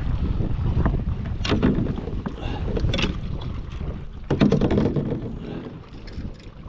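Wind rumbling on the microphone over water sloshing around a small boat on a lake, with a few louder splashes about a second and a half, three and four and a half seconds in.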